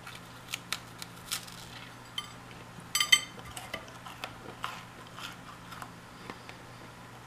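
A person chewing a stale two-month-old doughnut, with small wet clicks of chewing over a low steady hum. About three seconds in there is a brief louder clatter as the doughnut is set down on a ceramic plate.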